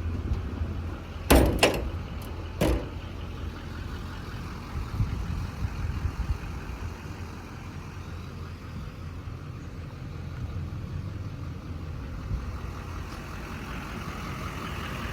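Duramax diesel engine of a Chevrolet Silverado 3500 service truck idling steadily. Three sharp knocks come in the first three seconds, and a higher-pitched running sound builds in near the end.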